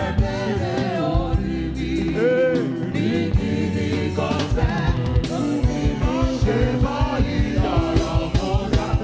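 Live gospel praise music: voices singing over a band, with a drum beat that turns steady and quick about three seconds in.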